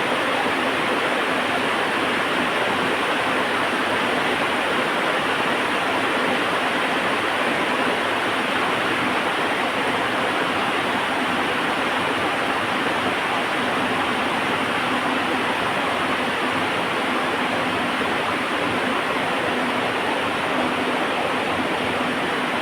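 Heavy rain falling: a steady, even hiss that does not change.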